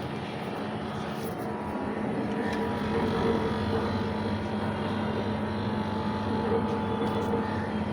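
Air conditioner running: a steady mechanical hum of several fixed tones under the rush of its fan, growing a little louder about three seconds in.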